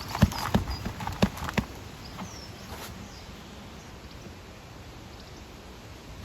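About five sharp knocks within the first second and a half, then a faint steady background with a few brief high bird chirps.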